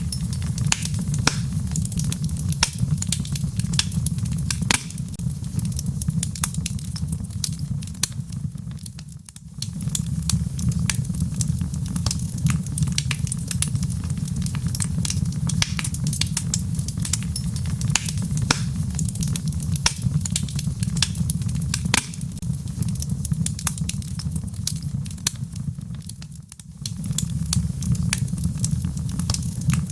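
Log fire burning in a fireplace: a steady low rumble of flames with frequent sharp crackles and pops from the burning wood. The sound briefly drops away twice.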